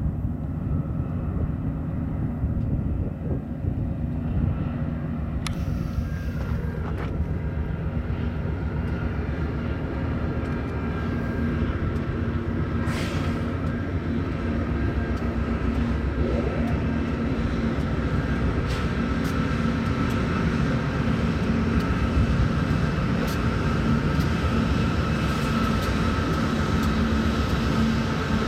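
Freight train passing: BNSF diesel-electric locomotives run by with a steady low engine rumble and a held hum, then steel wheels of autorack cars roll over the rails with scattered clicks, the sound building toward the end.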